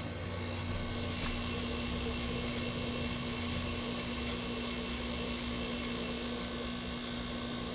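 Through-the-wall air conditioner running while it cools: a steady compressor hum with the fan's even hiss.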